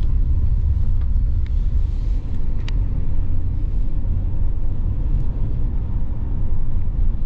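Car driving slowly along a street, heard from inside the cabin: a steady low rumble of engine and tyres, with a few faint clicks.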